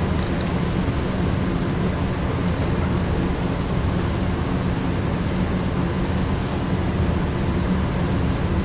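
HO scale electric slot cars running on the track, a steady whirring drone of their small motors.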